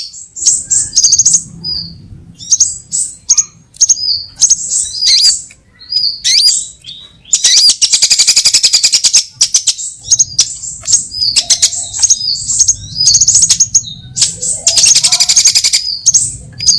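Sunbirds calling and singing: rapid high-pitched chips and short whistled notes, broken by a long, fast, dense trill about halfway through and another near the end.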